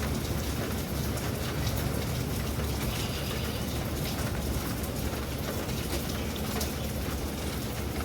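Steady storm rain, with individual drops ticking on a surface over a constant low rumble.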